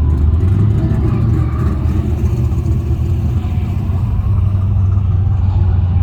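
Holden VX Commodore SS's stock LS1 V8 with an aftermarket exhaust idling, a steady low rumble heard from inside the car.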